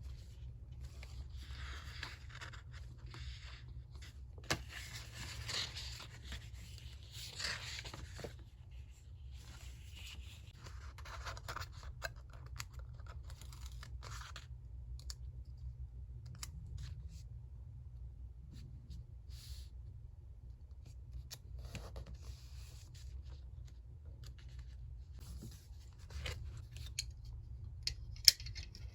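Paper handled during collage work: short, irregular rustles and scrapes of paper coming and going, with a couple of sharp clicks near the end.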